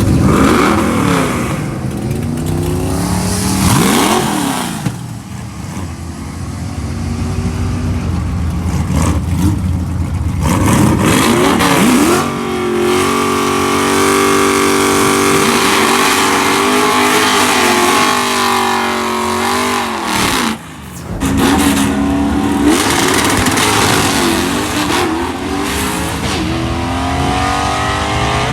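Drag car engines revving and running, rising and falling in pitch several times, with a long stretch of steady held revs in the middle. The sound breaks off abruptly for a moment about twenty seconds in.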